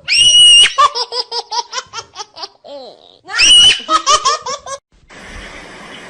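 High-pitched human laughter: a squeal followed by a quick run of laughing pulses, then a second squeal and run of laughs. Near the end the laughing stops and a steady hiss takes over.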